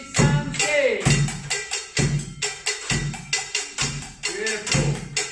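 Layered Japanese-style percussion rhythm: a low taiko-style drum struck about once a second, with quicker, sharp high strikes of the scraper, bell and small-drum parts between.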